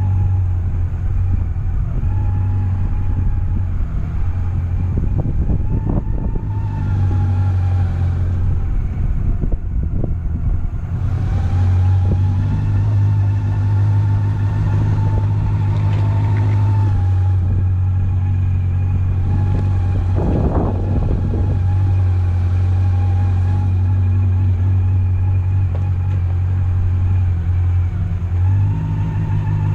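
Honda CB400SF's inline-four engine running at a steady pitch, with a step up in pitch near the end.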